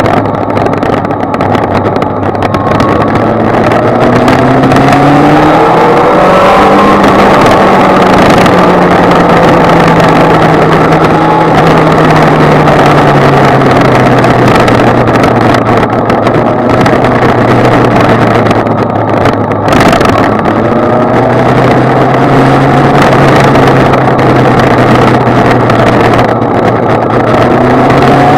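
Kawasaki Z1000's inline-four engine running on the road, its pitch rising as it accelerates, holding, then easing off, and climbing again near the end, over a steady rush of wind noise.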